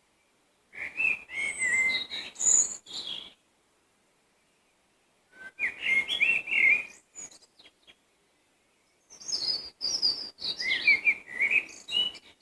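A songbird singing three separate phrases of quick, varied whistled notes, each two to three seconds long, with pauses between them.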